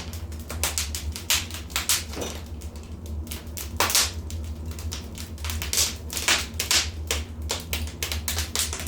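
Fire crackling in a fireplace: irregular sharp pops and snaps, some louder than others, over a steady low rumble.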